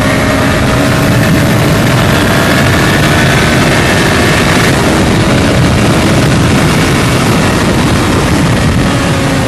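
Sport motorcycle engine running hard at high speed, heard from on board under loud wind rush on the microphone. The engine's pitch dips slightly early on, then holds steady.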